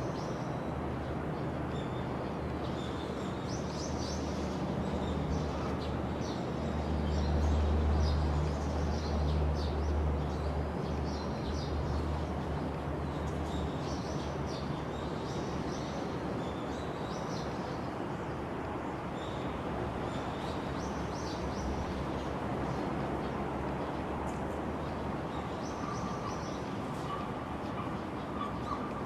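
Small birds chirping in short, repeated high calls over a steady low hum, which grows louder for several seconds about a quarter of the way in and then settles.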